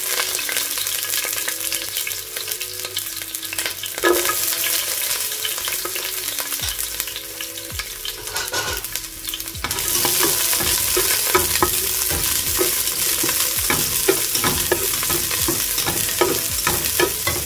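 Halved shallots frying in hot oil in a non-stick pan, a steady sizzle. From about ten seconds in the sizzle grows louder and a silicone spatula stirs them, adding quick scraping and tapping against the pan.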